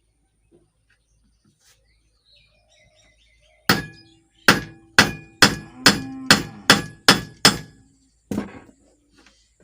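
About ten hammer blows on metal, roughly two a second, each ringing briefly, the first coming a few seconds in. This is hammering to knock a worn ball bearing out of a ceiling fan.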